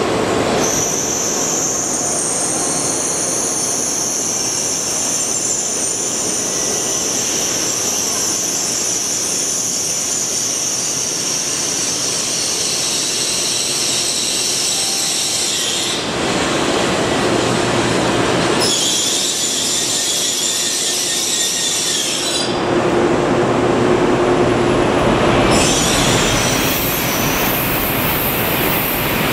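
N700S Shinkansen train running slowly into the platform to stop, with rolling wheel and rail noise and a high, steady squeal. The squeal shifts several times in the second half as the train comes nearly to a halt.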